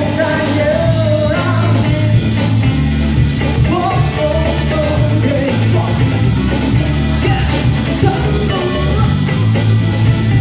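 Live band playing a pop-rock song: a steady full band with a strong bass end, and a melody line that bends in pitch near the start and again about four seconds in.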